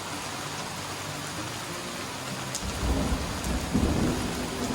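Heavy rain falling steadily, with a low rolling rumble of thunder that comes in a little past halfway and grows louder.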